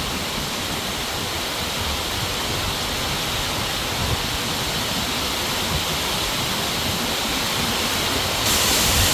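Heavy rain pouring down in a dense, steady hiss of falling drops. It grows louder near the end.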